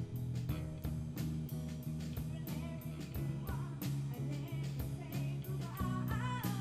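Rock band playing live, with guitars and a drum kit keeping a steady beat; a voice comes in singing near the end.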